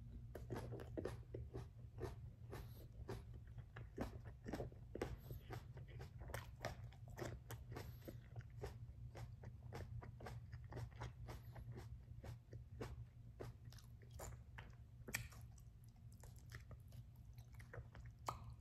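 A person chewing a raw Bleeding Jigsaw superhot pepper pod, with faint irregular chews a few times a second that thin out near the end.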